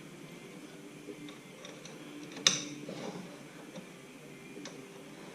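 Hand tools working the carrier bearing adjuster of a Ford 9-inch third member: light metal ticks, with one sharp metallic clink about two and a half seconds in.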